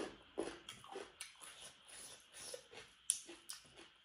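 Close-up crunching and chewing of raw cucumber: irregular crisp crunches with wet mouth sounds, the sharpest crunch a bit over three seconds in.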